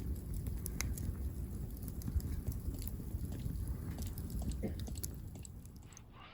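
Wood campfire crackling, with scattered sharp pops over a steady low rumble, fading down near the end.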